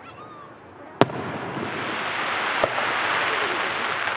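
Fireworks display: a sharp shell burst about a second in, followed by a dense, loud crackling that carries on, with a second, smaller bang midway.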